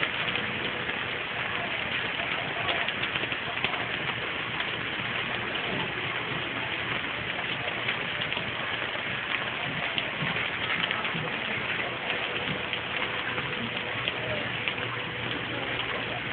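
Steady rain falling on asphalt pavement: an even hiss with dense pattering of drops.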